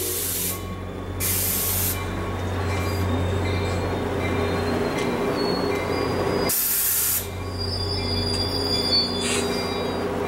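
NJ Transit commuter coaches rolling past on steel wheels: a steady rumble with a few short hissing bursts and thin high wheel squeals in the second half.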